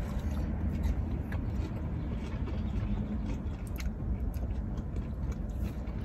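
Close-up chewing of a mouthful of pizza, with scattered faint wet mouth clicks, over a steady low rumble in the car's cabin.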